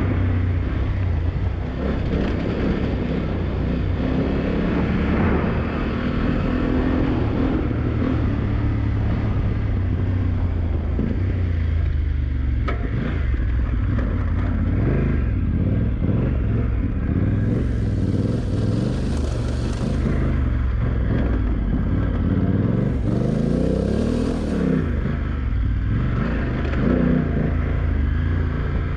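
BMW F900GS adventure bike's parallel-twin engine ridden hard, its pitch climbing and dropping again and again as the throttle is opened and shut.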